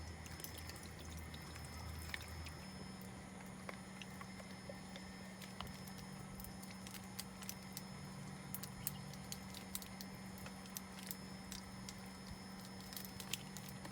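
Wood fire crackling with irregular small pops, and a pot of simmering fish ara-ni bubbling softly, over a low steady hum.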